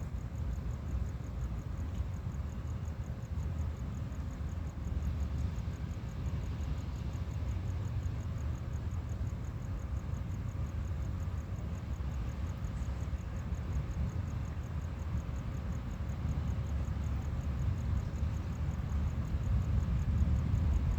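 Low, uneven rumble of wind on the microphone, growing louder near the end, with faint high insect chirring.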